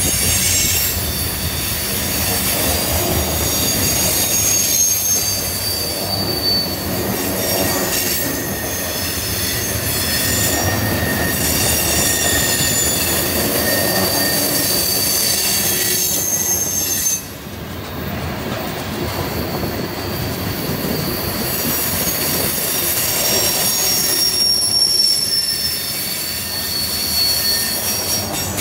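Freight cars rolling past on a curve, their steel wheels squealing against the rail in high, shifting whistling tones over the steady rumble and clatter of the wheels. The squeal fades briefly about two-thirds of the way through, then returns.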